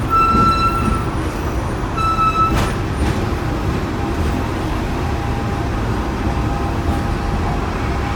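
Hong Kong double-decker tram running along its track: a steady rumble of wheels and motor, with two brief high tones in the first few seconds and a single clack about two and a half seconds in.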